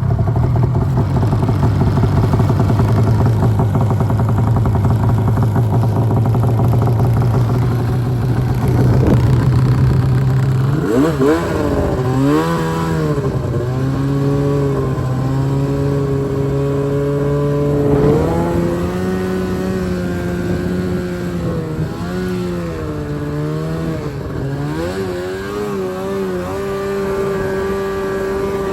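Arctic Cat M1000 snowmobile's two-stroke engine running at a steady high throttle. From about ten seconds in, the revs rise and fall again and again as the throttle is worked, holding steadier near the end.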